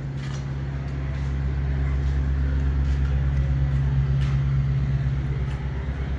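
A motor vehicle's engine running close by: a steady low hum that grows louder toward the middle and then eases slightly.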